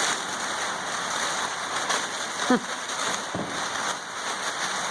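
Steady rushing hiss like rain on a roof, with a short falling squeak about two and a half seconds in and a light knock a moment later.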